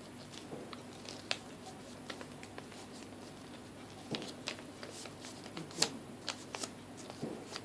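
Scattered light clicks, taps and rustles of hands working small craft material, with a few sharper ticks about a second in and near the sixth second.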